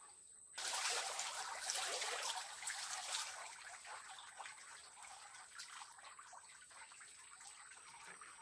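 Heavy rain falling, a dense pattering hiss that starts abruptly about half a second in and eases a little later on.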